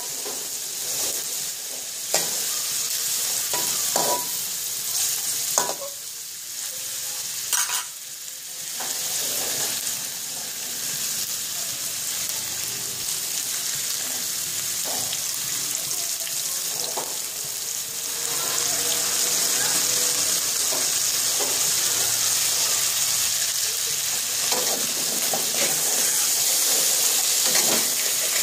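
Fish pieces sizzling in hot oil in a steel wok, with a metal spatula knocking and scraping against the pan as they are stirred. The sizzle grows louder about two-thirds of the way in.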